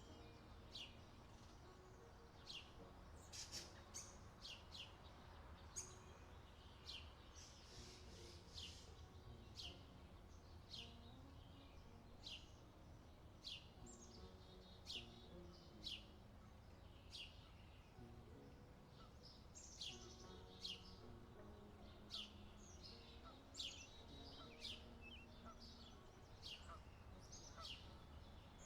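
Birds chirping: a long series of short, high notes that sweep downward, repeated about once a second, over a faint low steady rumble.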